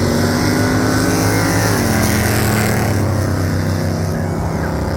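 Vehicle engine running loudly and steadily, its pitch shifting slightly about two seconds in.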